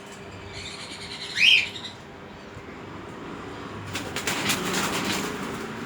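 A baby bird gives one loud, short, rising chirp about a second and a half in. Around four seconds in comes a second-long flurry of rustling.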